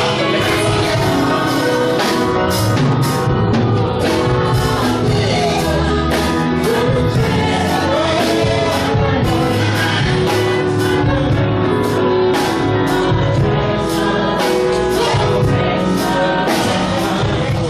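Gospel music with group singing over a steady beat.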